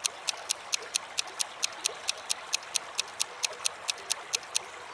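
Countdown timer sound effect: rapid, even clock ticking at about five ticks a second, stopping just before the end, over a steady background of trickling stream water.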